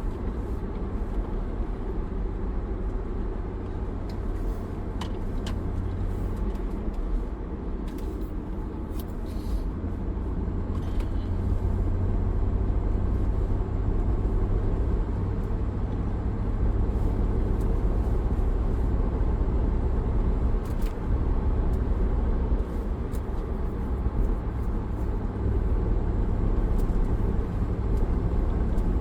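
Steady low rumble of road and engine noise inside the cabin of a 2004 Land Rover Discovery 2 driving at highway speed with the windows up. It grows louder about ten seconds in and holds there, with a few faint clicks.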